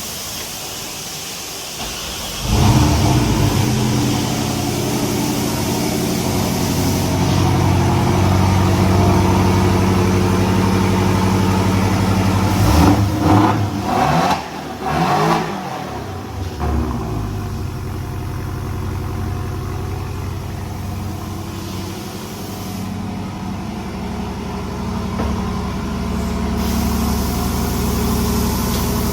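Porsche 718 engine starting up about two seconds in and settling into a steady idle, with a few quick revs blipped near the middle before it drops back to idle.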